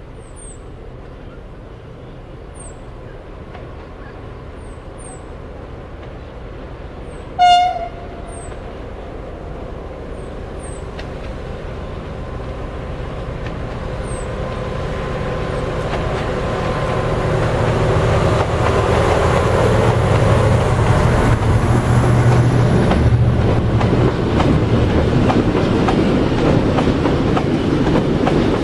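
Freight train of empty timber wagons hauled by two Vossloh G1000 diesel locomotives, approaching and passing. The diesel engines' rumble builds steadily through the first half and stays loud. A single short horn blast sounds about a quarter of the way in. Near the end the wagons roll by with a clatter of wheels on the rails.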